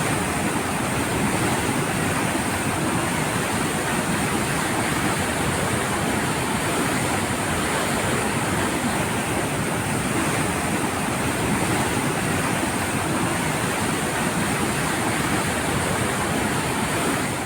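Floodwater rushing steadily out of a dam's open spillway gates, heavy releases during flooding.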